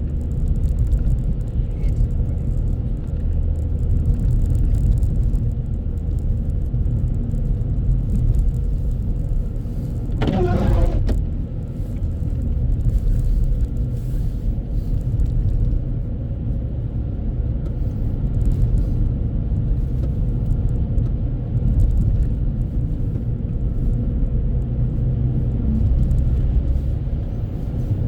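Steady low road and engine rumble of a car driving, heard inside the cabin. About ten seconds in there is a brief higher-pitched sound.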